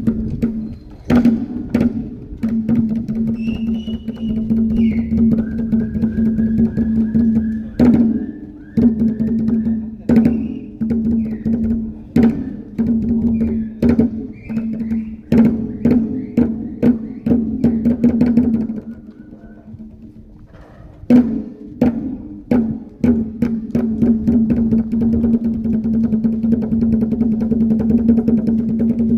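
Traditional dance music with rapid percussion strikes over a steady low hum, and high whistled calls in the first half. The music drops away briefly about two-thirds of the way through, then starts again.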